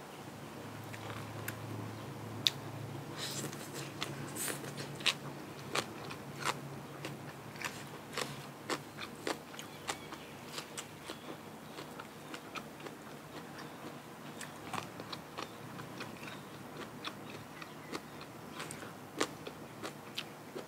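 A person eating crunchy food close to the microphone: chewing with many sharp crunches at irregular intervals.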